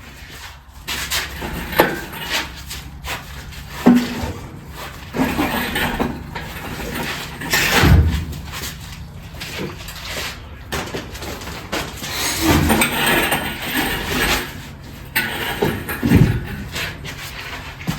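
Irregular metal clanks, knocks and scrapes of hands-on shop work with tools and engine parts, likely from fitting an engine stand's mounting plate and bolts to the engine block.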